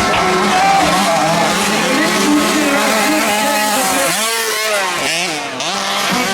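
Several motocross motorcycle engines revving, their pitch rising and falling, with sharp up-and-down sweeps about four to five seconds in.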